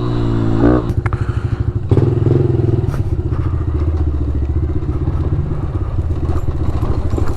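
Small pit bike engine running steadily at low revs, with a fast, even pulsing note. A couple of knocks come about one and two seconds in, and the engine note shifts slightly at the second one.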